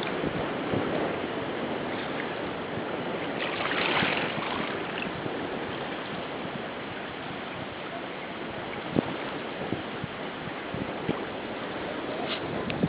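Water rushing and splashing along the hull of a sailing canoe under way, swelling briefly about a third of the way in. Wind buffets the microphone, and a few light knocks come in the second half.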